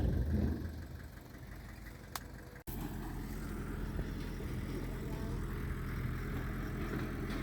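Diesel engine of earthmoving equipment running steadily at a low, even pitch. About two and a half seconds in, the sound cuts out for an instant, then carries on louder and steadier.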